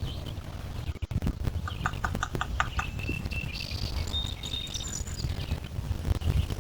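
Low, steady rumble of wind on the microphone and lake water lapping at the shore, with a bird calling over it: a quick run of about six short notes about two seconds in, then higher chirps and whistles.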